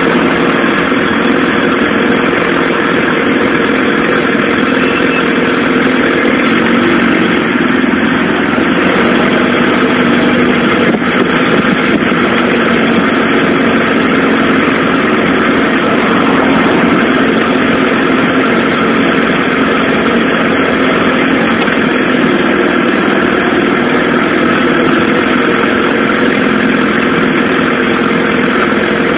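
Suzuki GSX-R SRAD sportbike's inline-four engine running steadily at a low, even pitch with no revving, heard from on the bike.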